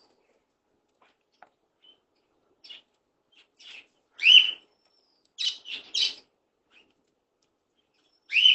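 Small pet parrot calling in short chirps: the loudest is a rising call about four seconds in, followed by a quick run of three calls and another rising call near the end.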